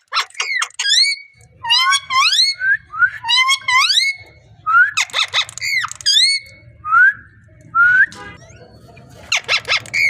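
Pet parrot whistling a repeated phrase of rising, upward-sliding whistled notes, broken by a few harsher calls about five seconds in and near the end.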